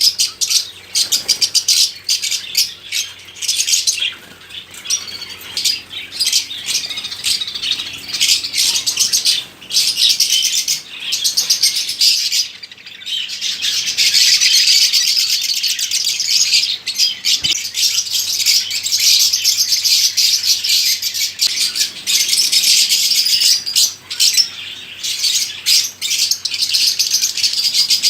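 Many caged birds chirping and chattering at once, a dense, continuous high-pitched twittering.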